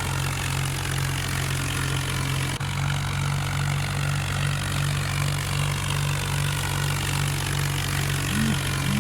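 Tractor engine running steadily at a constant low speed, with a brief drop-out about two and a half seconds in.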